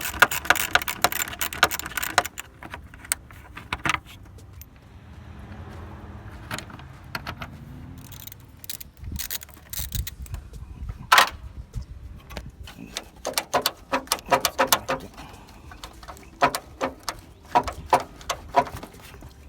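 Socket ratchet clicking in quick runs as 8 mm bolts are backed out, with a single sharp metal clack about eleven seconds in.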